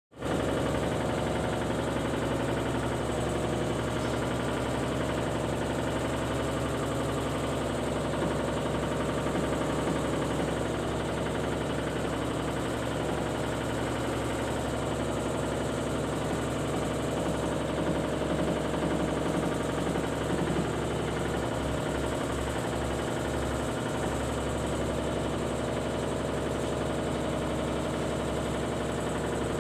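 Steady mechanical hum, like a running motor or engine, at an even level throughout.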